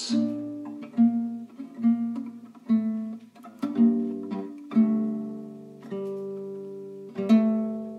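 Guitar playing on alone after the singing ends, with a chord struck about once a second. The last chord, near the end, is left to ring and fade.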